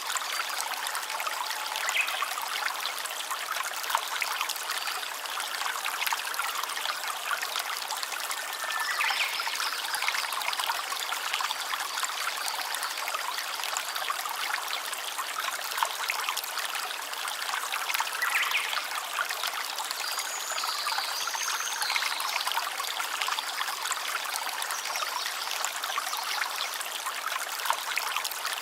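Shallow stream trickling and babbling steadily, with a few brief high chirping notes over the water.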